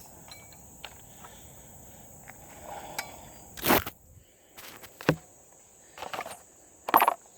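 Several sharp clicks and clacks of cartridges and an M1 Garand en-bloc clip being handled during loading, the loudest about halfway through. A steady high insect drone runs underneath.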